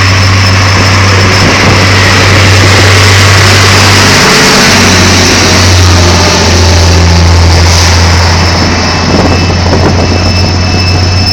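Loud, steady jet turbine noise from an aircraft on the ground: a deep hum with a thin high whine on top.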